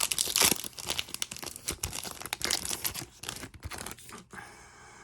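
Trading card pack wrappers being torn open and crinkled in a rapid run of crackling and ripping that dies down about four seconds in.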